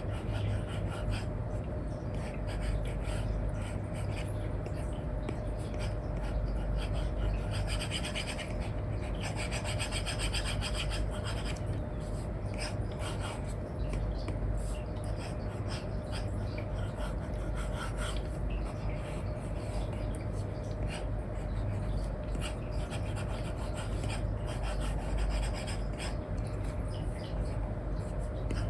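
Stylus nib scratching and rubbing across a paper-like film on a tablet screen, in quick back-and-forth colouring strokes that come thickest about a third of the way in. A steady low rumble and a faint hum run underneath.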